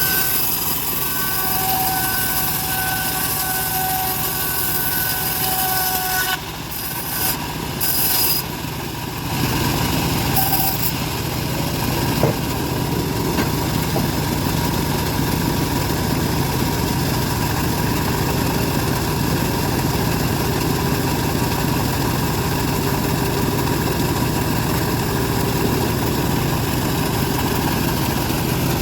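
Homemade bandsaw mill running steadily. It dips briefly a few times about six to nine seconds in, then settles into a steady, deeper running for the rest.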